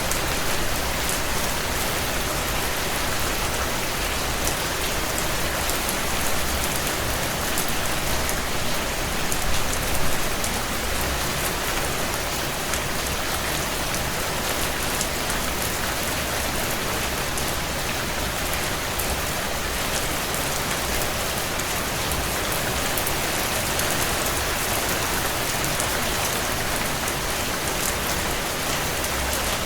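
Steady heavy rain on window glass, a dense even hiss, with scattered sharp crackles from a burning wood fire.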